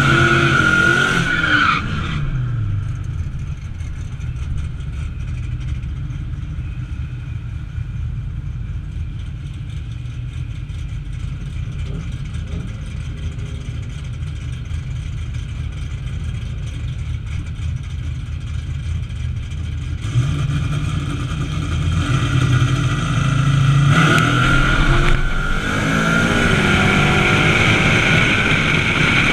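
Car engine heard onboard at a drag strip: running at high revs, then easing off about two seconds in to a low, steady run for a long stretch. It grows louder again about twenty seconds in, with rising sweeps in revs near the end.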